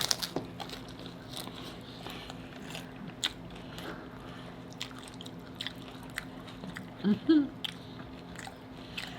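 Close-up eating sounds: crunching and chewing of Doritos Locos hard-shell tacos, with scattered crisp cracks of the shell, and a short vocal sound about seven seconds in.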